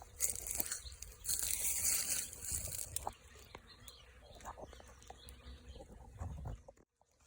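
Wind buffeting the microphone, a low rumble with gusts of hiss, mixed with light rustling and crackling clicks. The sound cuts out briefly near the end.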